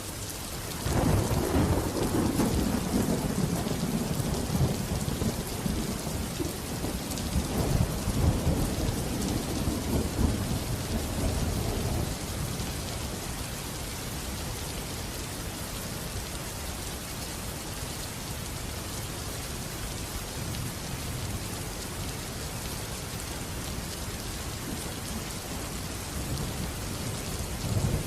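Steady rain with a long roll of thunder that breaks suddenly about a second in, swells again a few seconds later and fades out after about eleven seconds, leaving only the rain; a faint low rumble returns near the end.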